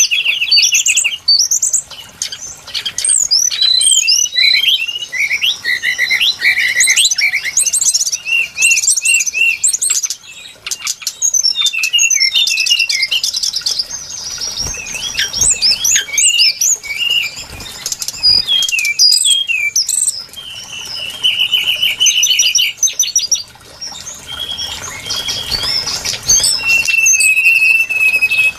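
Brown-chested jungle flycatcher singing without pause: a rapid, varied string of sweet whistles, chirps and short trills, including a fast steady trill a little after twenty seconds in. This is a recording used as a lure call to attract the bird.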